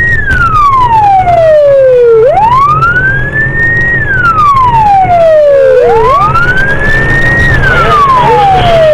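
Police car siren wailing: a rise to a high pitch, a short hold, then a slow fall, repeating about every three and a half seconds, over the low drone of the patrol car's engine and road noise.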